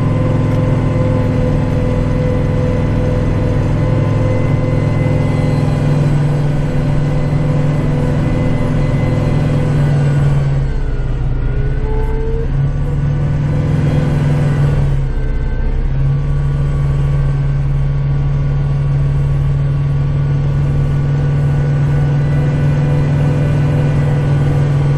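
Kubota tractor's diesel engine running steadily under work. About halfway through, the engine note drops and wavers for a few seconds, then settles back to its steady pitch.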